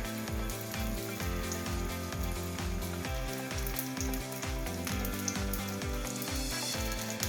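Chicken cutlets frying in vegetable oil in a pan, a steady sizzle with crackling, heard over background music with a regular beat.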